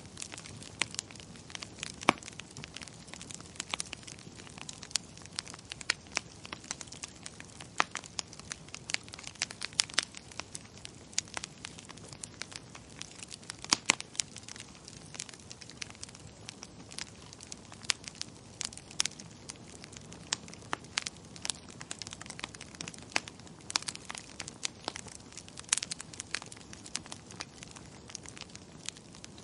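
Wood fire crackling in a fireplace: a steady low hiss with irregular sharp pops and snaps, several a second.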